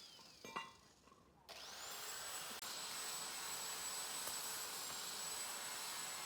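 High-speed power tool motor: it winds down, a single knock follows about half a second in, and at about a second and a half it spins back up fast to a steady high whine with a rushing noise.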